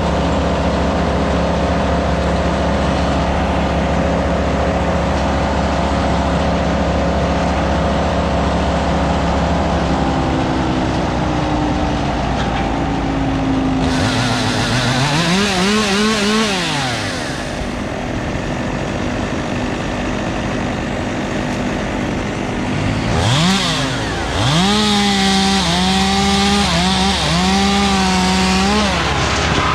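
A chainsaw revs up and down about halfway through, then runs at high revs with brief dips near the end, as if cutting wood. Underneath, a steady engine drone of other tree-work machinery runs throughout.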